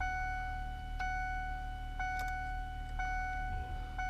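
Ford 7.3 diesel truck's dashboard warning chime at key-on, a clear ding repeating about once a second, five times, while the glow plugs cycle before cranking. A low steady hum runs underneath.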